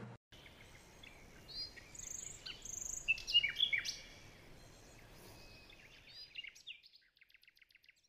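Songbirds chirping and tweeting over a faint outdoor hiss. The calls are short, quick whistles that come thickest a few seconds in. They thin out and stop near the end, leaving a faint rapid trill.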